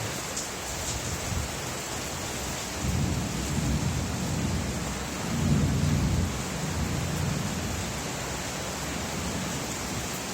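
Steady rain hiss with a low roll of thunder that builds about three seconds in, is loudest around the middle, and dies away a few seconds later.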